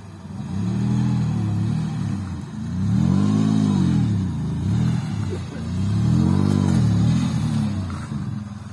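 A vehicle's engine revving up and falling back three times in long surges, each about two seconds.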